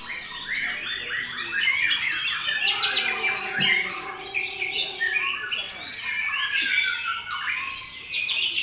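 White-rumped shamas (murai batu) singing in a contest class: continuous, dense song of quick rising and falling whistled and chattering phrases that overlap one another.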